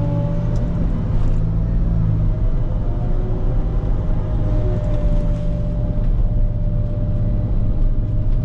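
Volvo L90H wheel loader's diesel engine running at steady revs, a low hum with a steady whine riding over it.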